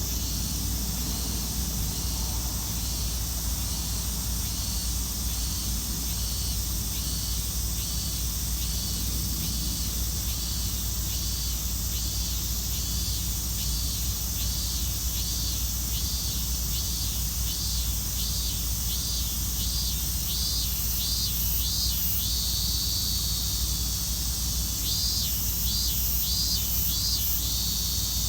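Robust cicada (minmin-zemi, Hyalessa maculaticollis) singing its repeated 'meen-meen' phrase. The pulses come faster and faster until a short break about two-thirds of the way in, then a few more. A steady high hiss and a low rumble run underneath.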